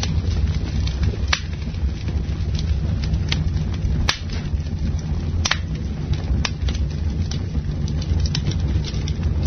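Campfire burning: a steady low rumble of the flames with sharp wood crackles and pops every second or so.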